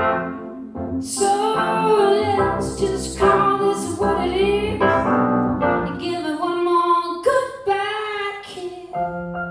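Woman singing a slow melody over keyboard accompaniment, with a held chord near the end.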